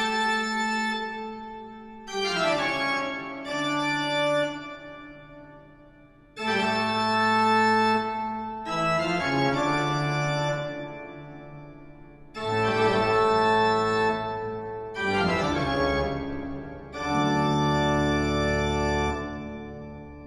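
Live band music: a slow run of about eight long sustained chords, each starting suddenly and fading over two to three seconds, with no drumbeat.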